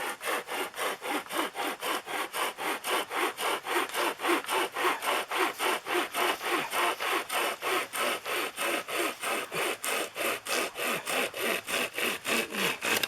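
Pocket chainsaw, a flexible toothed chain pulled back and forth by two hand handles, sawing through a wooden log in quick, even strokes, about four a second. It stops near the end.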